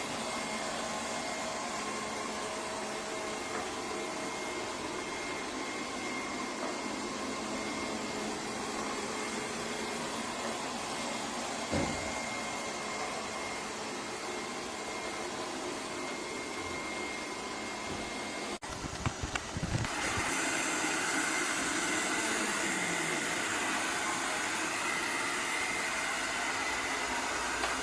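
Robot vacuum cleaner running with a steady whir. There is a single knock about twelve seconds in, a brief break with a few knocks at about nineteen seconds, and then it carries on with a slightly brighter, louder hiss.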